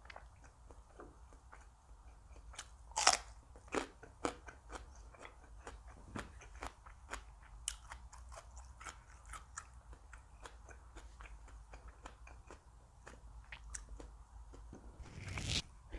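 Close-miked chewing of crisp food: a string of small crunches and wet clicks, with a sharp louder bite about three seconds in and another burst of crunching near the end.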